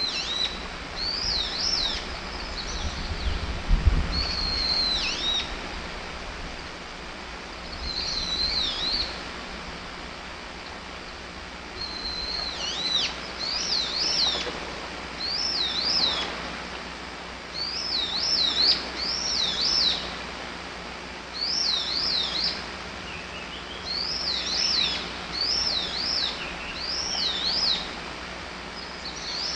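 A wild bird singing short, loud, whistled phrases of quick up-and-down sweeps, repeated again and again with short pauses between them. A brief low thud about four seconds in.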